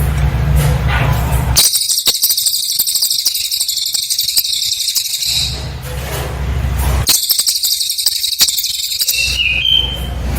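Cililin bird song: two bursts of very high, rapid, buzzy trilling, the first about three and a half seconds long and the second about two, separated by a short pause. A brief lower whistled note follows near the end, over a low steady hum in the gaps.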